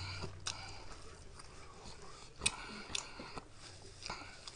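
Faint mouth sounds of a man chewing spicy noodles: a few scattered wet clicks and lip smacks, the sharpest about halfway through. Near the end comes a short rustle as a paper napkin wipes his mouth.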